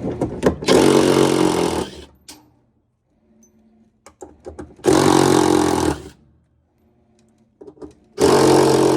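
A cordless drill/driver running in three bursts of about a second each, backing out the hex screws that hold the washer's gear case, with small clicks of handling in between.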